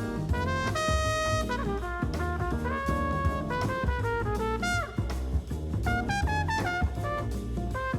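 Background music: an upbeat jazzy tune with brass lead notes over a steady drum beat.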